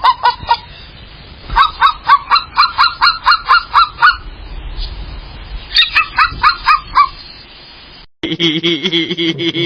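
Goose honking in rapid runs of short, loud calls, about four a second, with pauses between the runs.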